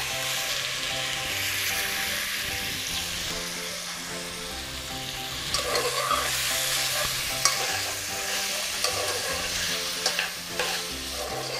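Boiled pork ears, trotters and rind sizzling as they hit hot oil and a soffritto of celery, carrot and onion in an aluminium pot. They are stirred with a metal spoon that clicks and scrapes against the pot a few times in the second half.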